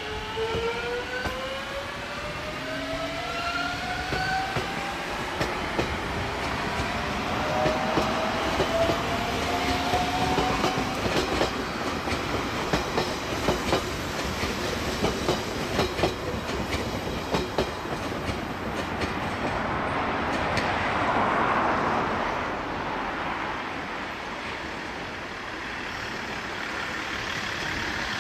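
Shinano Railway 115-series electric train pulling away, its motor whine rising in pitch during the first few seconds and again a little later, followed by a run of sharp clicks as the wheels cross rail joints over a steady rolling rumble.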